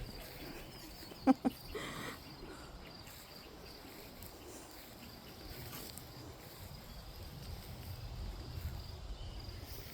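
Quiet outdoor ambience with a faint low rumble, broken about a second in by a brief double sound, the loudest moment.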